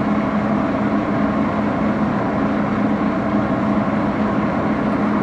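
Axelson engine lathe running steadily, its motor and gearing giving an even hum with a constant low tone.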